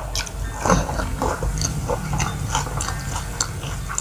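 Close-miked chewing of a mouthful of rice, with wet mouth clicks and smacks.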